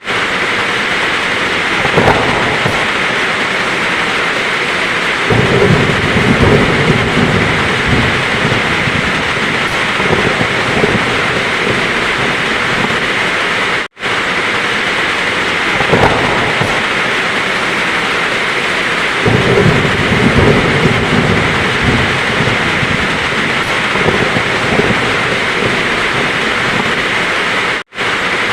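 Heavy, steady rain with rolling thunder rumbling twice, the same stretch of storm repeating about every fourteen seconds. There is a brief dropout to silence about halfway through and again near the end.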